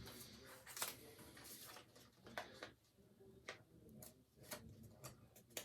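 Faint, scattered light clicks and taps, about eight of them, as paper puppet cut-outs and metal paper fasteners are handled on a table.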